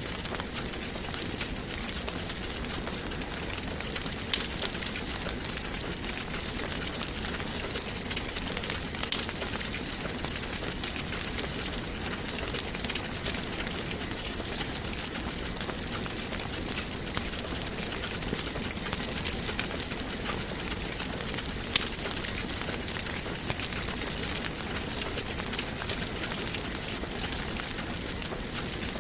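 Wood fire in a fireplace crackling steadily, a continuous hiss dotted with small pops and snaps, with two sharper pops about four seconds in and about 22 seconds in.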